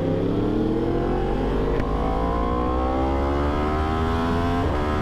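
Yamaha R1 crossplane inline-four accelerating hard, its pitch rising steadily for about four and a half seconds before dropping near the end at a shift.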